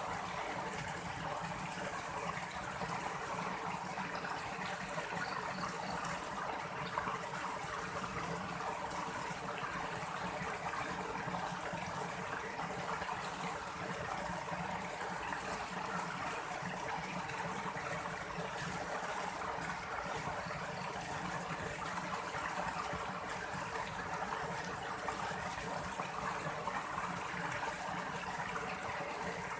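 Water rushing steadily, an even hiss with no breaks.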